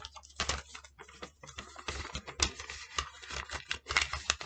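Paper being handled, rustling and crinkling in quick irregular little clicks.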